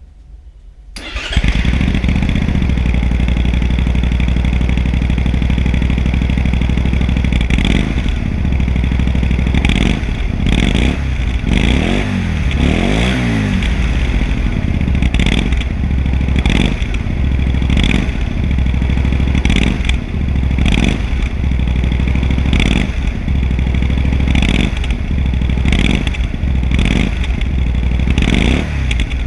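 Honda Varadero XL 125 V's 125 cc V-twin starting about a second in, then running through an Arrow Street Thunder aftermarket exhaust. It idles with a few slow rises and falls in revs in the middle and short throttle blips about once a second later on.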